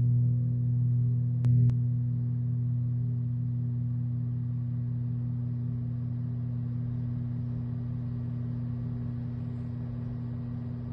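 Large gong of a Malay gamelan ringing out: a deep, steady hum that slowly fades, with a sharp knock about a second and a half in.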